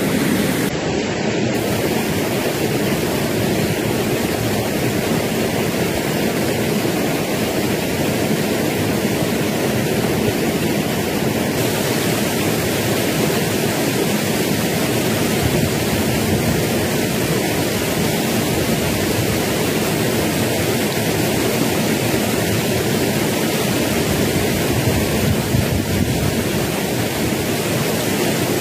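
Stream water rushing below a waterfall: a steady, even rush of water.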